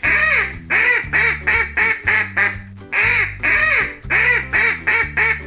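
Duck quacking in a series: two longer quacks followed by a quick run of shorter ones, the pattern repeated twice, over light background music.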